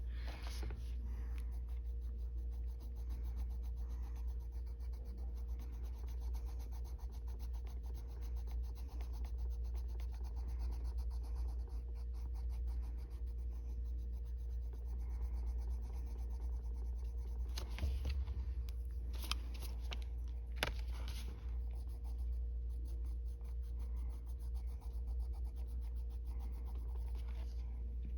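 Colored pencil scratching back and forth on a coloring-book page in quick, small strokes, blending layered colors together and filling in white space. A few brief light clicks come about two-thirds of the way through, over a steady low background hum.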